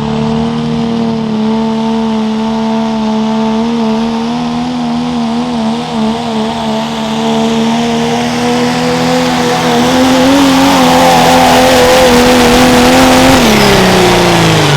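Turbocharged diesel pickup engine held at full throttle while pulling the sled, its pitch steady with a wavering stretch in the middle and a slight rise later. Near the end the engine speed falls away as the driver comes off the throttle.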